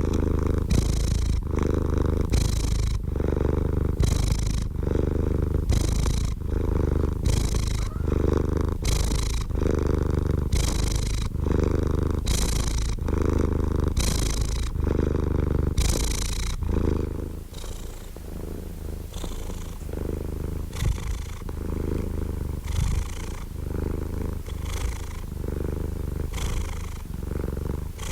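Domestic cat purring steadily: a low rumble that swells and falls with each breath, about once a second, growing softer a little over halfway through.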